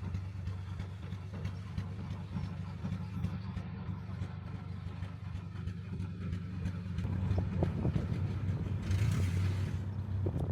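Narrowboat's diesel engine running steadily with a low thrum, a little louder in the second half, with a brief hiss near the end.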